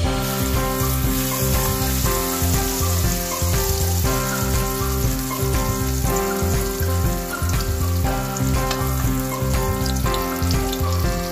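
Egg-coated grilled eggplant (tortang talong) frying in hot oil in a pan: a steady sizzle that sets in as it goes into the oil. Background music plays over it.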